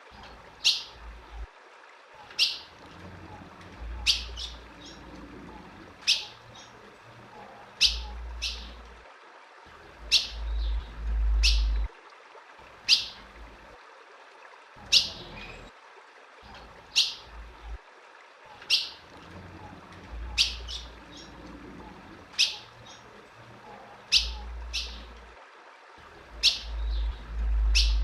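Female ultramarine grosbeak (azulão) giving short, sharp chip calls, one every second or two, each a quick downward-sliding note. A low rumble comes and goes several times beneath the calls.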